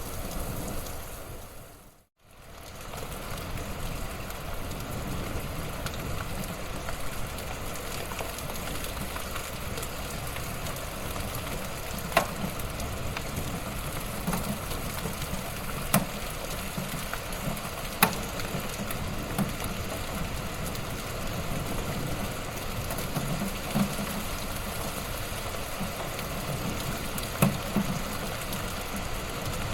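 Wood fire in a fireplace crackling steadily, with a few sharp pops of burning wood. It fades out and back in about two seconds in.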